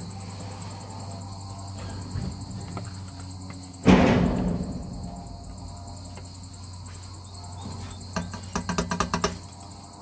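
Crickets chirping steadily, with a loud single knock about four seconds in that rings briefly, and a quick run of light taps near the end.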